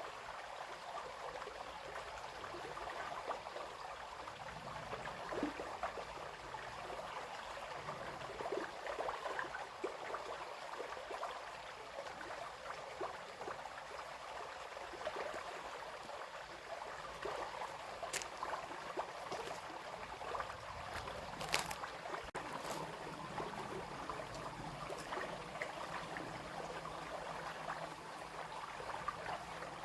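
Shallow brook babbling and trickling over stones, a steady stream of small splashes and gurgles, with a few sharp clicks about two-thirds of the way through.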